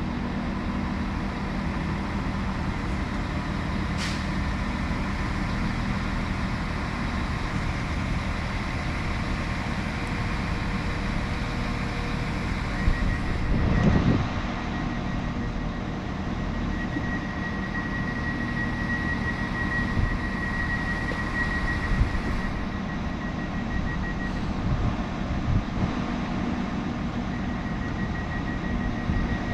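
Diesel multiple-unit train engine running steadily with a low hum. From about halfway, a rapid high-pitched beeping tone sounds on and off, and there is a short loud rush partway through.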